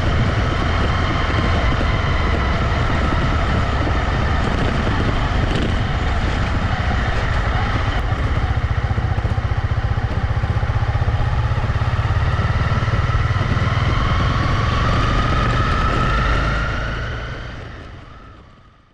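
Honda CB250R's single-cylinder engine running under way, with a steady low rumble. Near the end its pitch rises as the bike speeds up, then the sound fades out.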